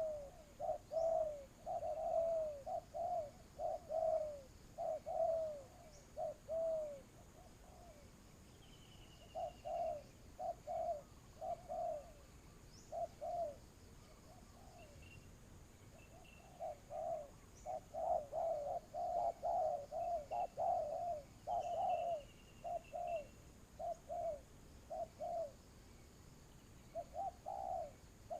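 Spotted doves cooing: bouts of short, low, repeated coos with pauses of a second or two between phrases, a wild dove answering a decoy. Faint chirps of small birds are heard behind them.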